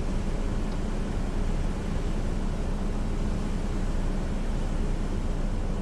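Hurricane wind and rain: a steady rushing noise with a heavy low rumble underneath, unchanging throughout.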